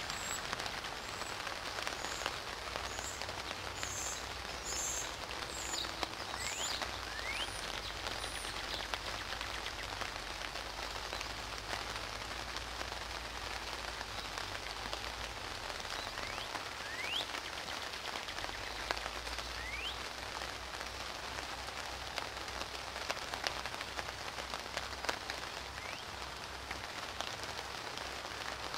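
Steady spring rain falling on leaves and branches: a dense, even patter of drops. A few faint, short rising whistles sound now and then.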